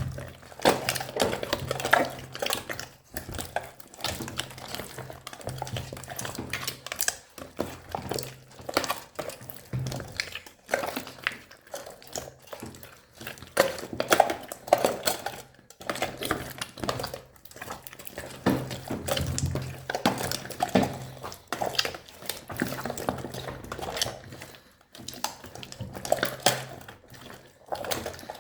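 A big mass of old slime being squished and mixed with plastic slime charms, giving continuous irregular wet crackles, pops and clicky clatter.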